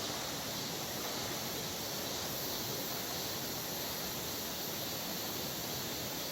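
Steady, even rush of a mountain stream.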